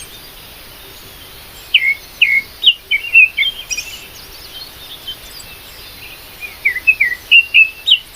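Songbirds chirping: quick, high, downward-sweeping chirps in two bursts, one around two seconds in and another near the end, with a quiet stretch between.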